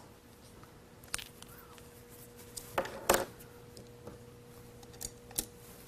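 A few soft clicks and rustles of cosmetics being handled, with the loudest pair about three seconds in, over quiet room tone with a faint steady hum.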